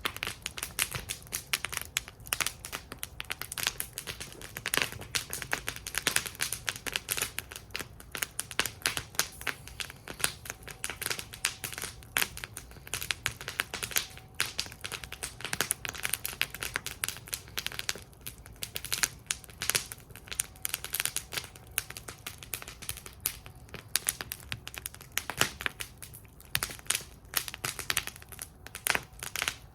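Wood fire burning in a metal fire bowl, crackling and popping with many irregular sharp snaps over a low, steady rumble of flame.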